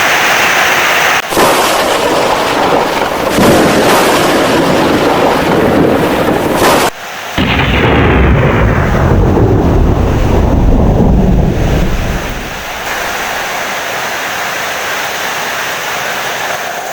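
A thunderstorm with heavy rain. Loud thunder breaks off abruptly twice in the first seven seconds. Then a deep rolling rumble rises and dies away by about twelve seconds, leaving steady rain.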